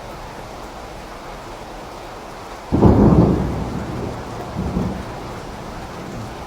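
Steady rain with a sudden clap of thunder about two and a half seconds in, rumbling and fading over a couple of seconds, with a second smaller swell of rumble shortly after.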